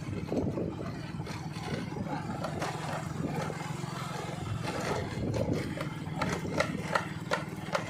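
An engine running steadily with a low hum, with scattered clicks and knocks that become more frequent in the second half.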